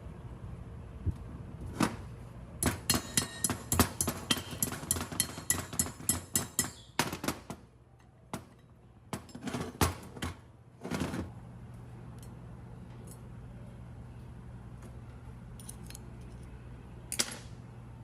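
A run of quick sharp metal knocks and clinks, about three a second, followed by a few scattered knocks, from hand-tool work on metal parts, over a steady low hum.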